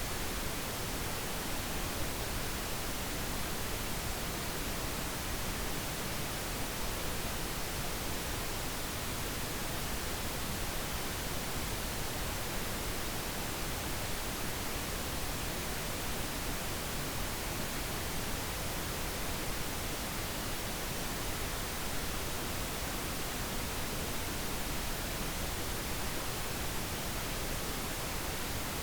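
Steady, unbroken pink noise, an even hiss spread across all pitches with no changes.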